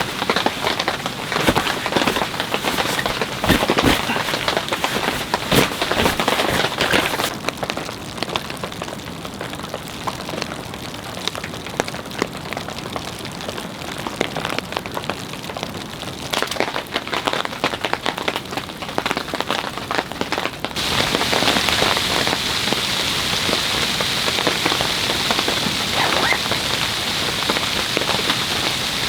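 Rain falling steadily, with many separate drops ticking close by over the hiss. The sound shifts abruptly about seven seconds in to a thinner patter, and again about twenty-one seconds in to a denser, steadier hiss.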